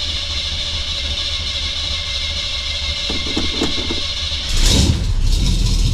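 A Chevelle's engine cranking steadily on the starter, then catching and running about four and a half seconds in. It is a start after the car has sat for about two weeks.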